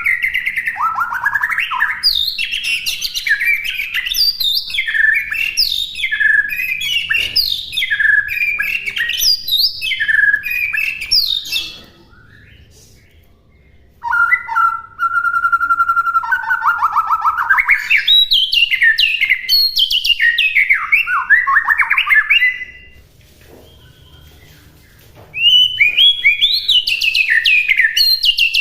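White-rumped shama (murai batu) singing a long run of rapid, varied whistled phrases, broken by two short pauses, one a little before halfway and one near the end.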